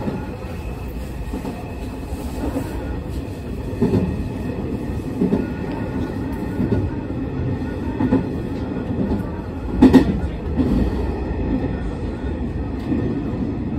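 Hanshin Railway local train running, heard from inside the passenger car: a steady low rumble of wheels on rail, broken by several knocks from the wheels, the loudest about ten seconds in.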